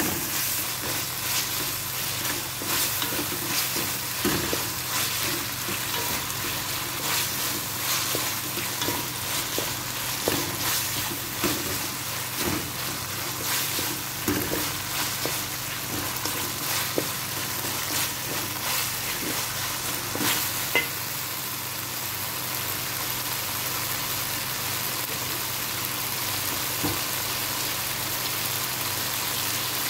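Chicken and mixed vegetables sizzling in oil in a metal pan, stirred with a wooden spatula that scrapes and taps against the pan. The stirring noises come mostly in the first two-thirds, leaving a steady sizzle near the end.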